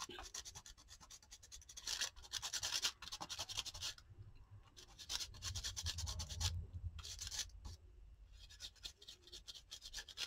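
Pen scratching on paper in several strokes of a second or two each, drawing a border line along a ruler.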